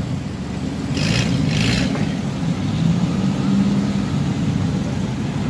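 Engines of lifted off-road 4x4s, a Suzuki Jimny nearest, running with a steady low rumble as they roll slowly past, rising slightly in the middle. Two short hisses sound about a second in.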